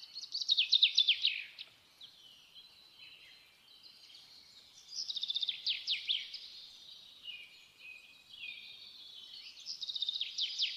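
A songbird singing: three phrases of quick, falling chirps, one at the start, one about five seconds in and one near the end, with softer twittering between.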